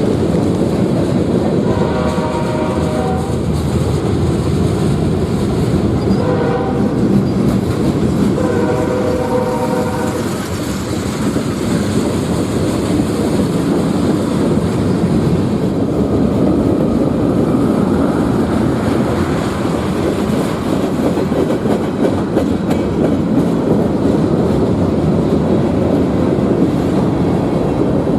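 A train passing close by with a steady rumble and clatter of wheels on the rails. The locomotive horn sounds three times: a long blast about two seconds in, a short one about six seconds in, and another long one about nine seconds in.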